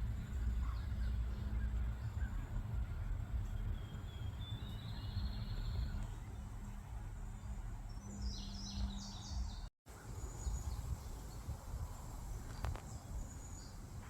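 Outdoor nature ambience: a steady low rumble with several short bird calls, high chirps that come in small runs. The sound cuts out briefly about ten seconds in.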